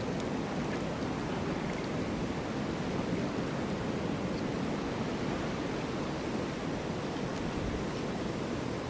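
Snowstorm wind blowing in a steady, even rush, with no distinct gusts or impacts.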